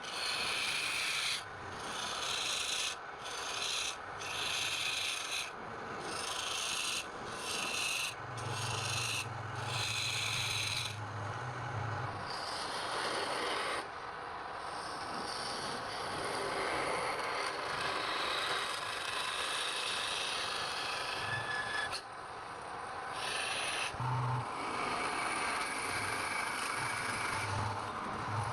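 Wood being abraded by hand, in repeated strokes with short breaks about once a second for the first ten seconds or so, then a more continuous rubbing.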